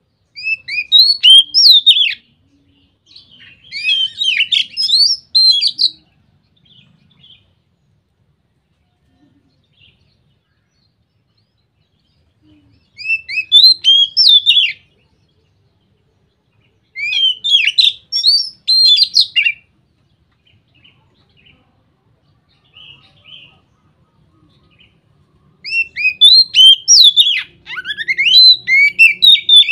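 Oriental magpie-robin (kacer) singing loud, full-voiced 'ngeplong' song: five bursts of rapid, varied whistled phrases, each two to four seconds long, with pauses between them.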